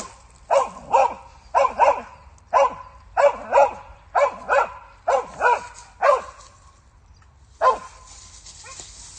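Hunting dog barking at a squirrel: about a dozen short, loud barks, often in quick pairs, then a pause and one last bark near the end.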